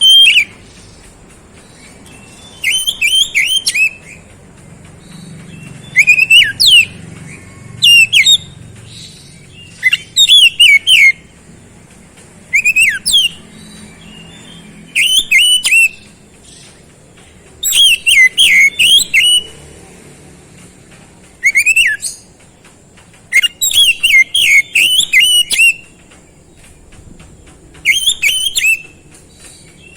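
Oriental magpie-robin (kacer) singing: loud bursts of rapid whistled notes, many sweeping downward, each phrase lasting about a second and repeated every couple of seconds.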